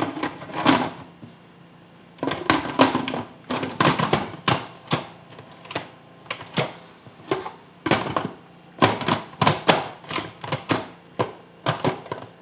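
Lid of a Cook's Essentials pressure cooker being fitted and locked in place: a long, irregular run of sharp clicks and clacks, some in quick clusters.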